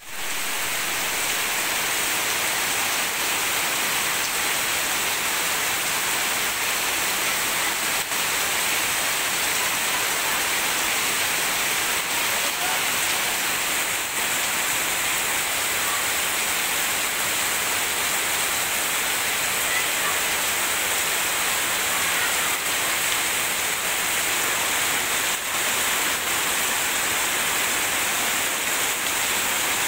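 Heavy tropical downpour falling steadily on leaves and waterlogged ground: an even, unbroken hiss.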